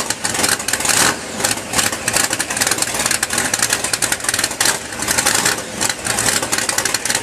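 A mud truck's engine running hard, with a dense rapid crackle.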